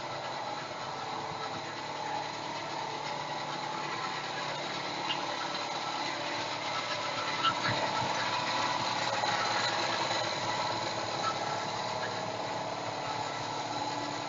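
A motor running steadily, an even mechanical noise with several constant tones and a few light ticks near the middle.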